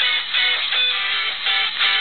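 A Nokia 5220 mobile phone ringtone playing a melody of quick, separate notes.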